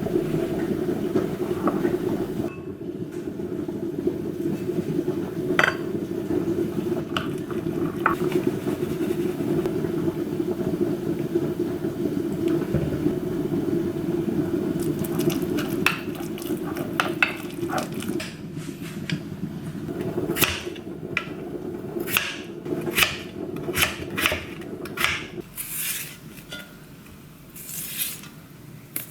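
Kitchen work: utensils and dishes clinking and tapping, more often in the second half, over a steady low hum that stops near the end.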